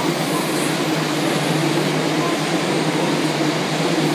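A container freight train's wagons rolling past, a steady, unbroken noise of wheels on rail.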